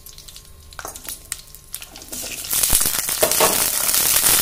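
Cauliflower florets dropping into hot oil in a steel kadai: a few light clicks at first, then a loud sizzle of frying that swells from about halfway in as more florets hit the oil.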